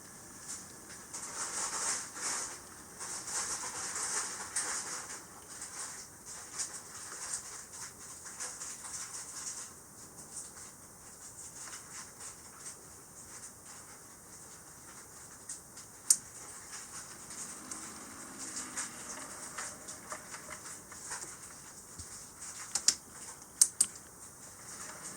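HO-scale model steam locomotive running on track: a light hiss of wheels, gears and motor with scattered small clicks of wheels over rail joints, and a few sharper clicks, the loudest a little after the middle and near the end.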